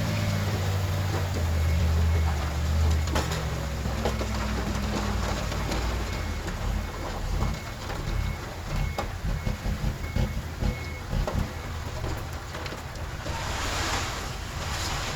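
Heavy earthmoving machinery's diesel engine running, with a faint backup alarm beeping steadily through the middle. A rush of hissing noise swells near the end.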